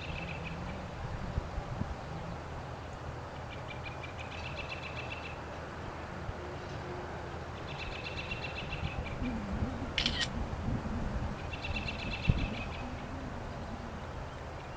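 A small songbird's high trilled song, each trill a quick run of pulses lasting just over a second, repeated three times at even spacing over a steady low rumble. A single sharp click comes about two-thirds of the way through.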